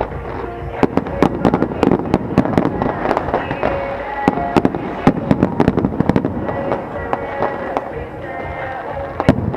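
Fireworks going off in many sharp bangs and crackles at an irregular, rapid pace, with music playing underneath.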